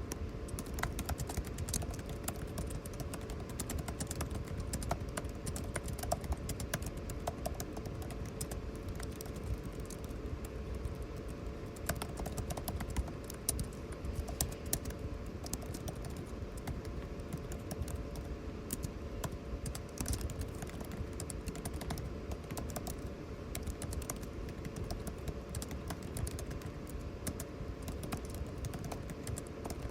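Computer keyboard typing: quick, irregular key clicks throughout, over the steady hum and rush of air conditioning.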